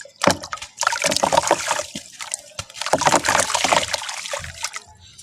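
Pure black sand crumbling wet into water, a dense crackle of many small grainy clicks and splashes coming in a few long bursts.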